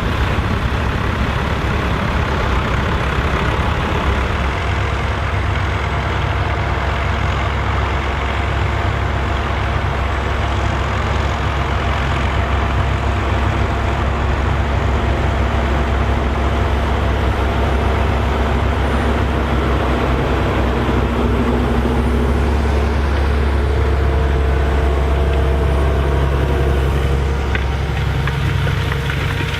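Massey Ferguson 2680 tractor's diesel engine running steadily under load while pulling a cultivator through a field.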